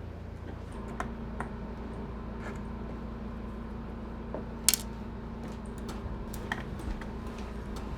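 Scattered small clicks and taps of hard objects being handled, with one sharper click a little before halfway, over a steady low hum.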